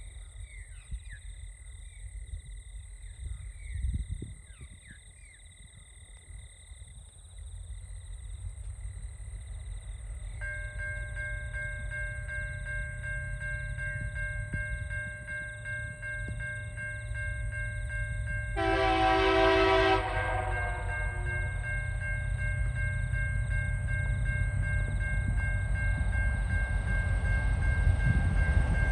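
Level crossing warning bells start ringing about ten seconds in as two TasRail diesel locomotives approach running light. The low engine rumble builds steadily, and about two-thirds of the way in the lead locomotive, TR02, sounds its horn once, a blast of just over a second and the loudest sound. Birds call at the start.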